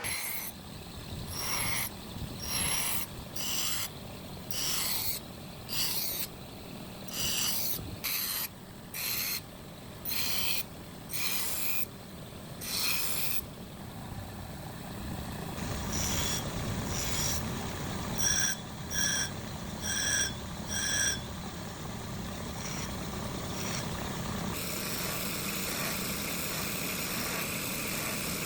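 Steel being worked by hand with a file or abrasive: rhythmic back-and-forth scraping strokes, about one a second. Later strokes carry a faint ringing squeal. A steady running noise takes over near the end.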